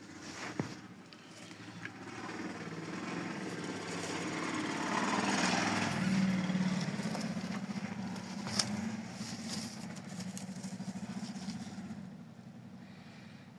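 A small engine running with a steady low pulsing hum, growing louder to a peak about halfway through and then fading away, like a motor vehicle passing by; a couple of sharp clicks stand out over it.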